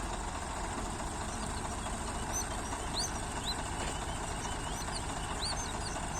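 Tractor diesel engine idling steadily, with a bird's short high chirps repeating over it from about two seconds in.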